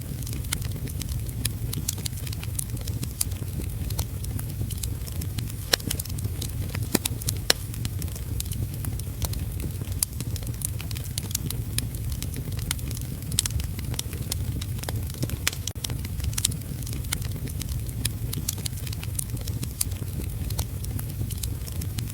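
Wood fire crackling in a fireplace, with many sharp irregular pops, over a steady rush of heavy rain.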